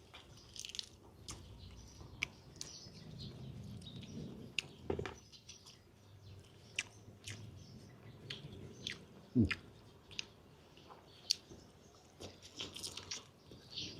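A person chewing free-range chicken close to the microphone: scattered wet mouth clicks and smacks, with a couple of short murmurs about a third and two thirds of the way through.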